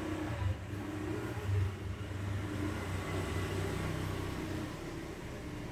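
A steady low rumble, like a vehicle engine or traffic running.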